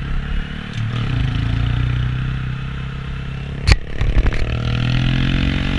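Honda Grom's small single-cylinder engine running under way. About two-thirds in there is a sharp knock, the loudest moment, followed by a few lighter clicks, and then the engine note rises as the bike accelerates.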